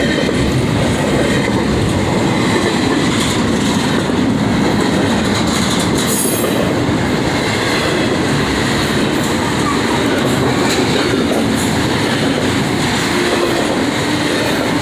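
Long freight train rolling past at close range: a steady, loud rumble of wheels on rail, with a brief high wheel squeal about six seconds in.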